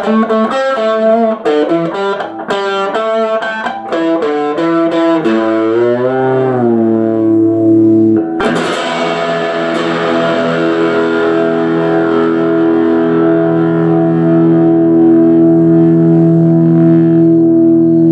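1966 Fender Telecaster electric guitar being played: a run of quickly picked single notes, a string bend about six seconds in, then a chord struck just after eight seconds and left to ring out.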